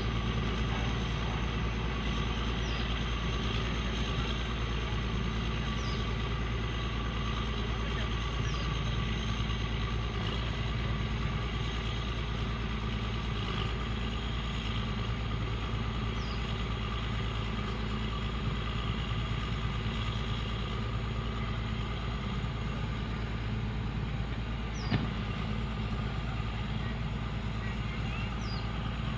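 Heavy road-building machinery's engine running steadily, with a single short knock near the end.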